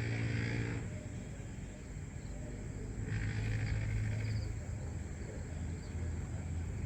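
Outdoor early-morning ambience: a steady low hum, two brief louder noisy swells, and a few faint short bird chirps.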